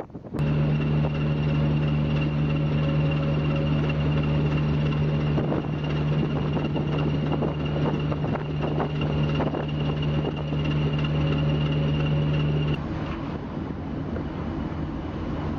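A steady engine drone with a strong low hum and a thin high whine. It starts abruptly, then drops slightly in level and changes character near the end.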